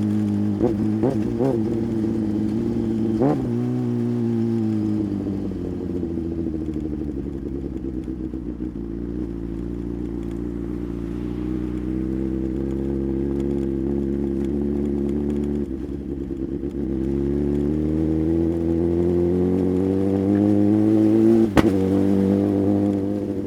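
Sport motorcycle engine under way: a few quick rises in revs near the start, then the revs fall away and hold low for several seconds before climbing again under acceleration. A single sharp click about three-quarters of the way through.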